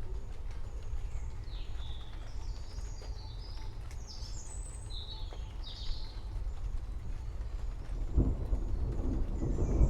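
Birds chirping and calling over a low, continuous rumble of thunder. About eight seconds in, a louder roll of thunder swells up.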